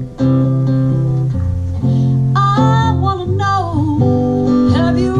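Acoustic guitar strumming the chords of a song, with a sliding melody line over it in the middle.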